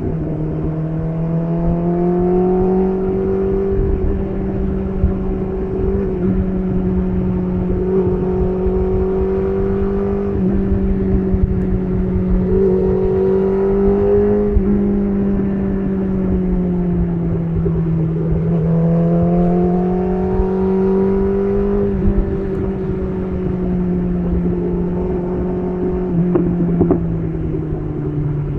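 BMW S1000RR's inline-four engine through an SC Project CR-T titanium exhaust, running under steady part throttle while riding, its note rising and easing off gently several times.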